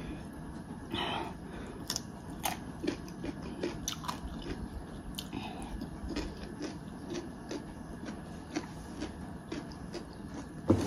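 A person chewing and biting through a meal of pork fry and rice, with irregular small clicks and mouth sounds, and one sharper knock near the end.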